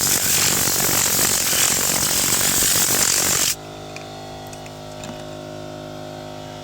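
Tornador compressed-air cleaning gun blasting air, a loud steady hiss that cuts off suddenly about three and a half seconds in. After it stops, a steady hum with a few faint clicks remains.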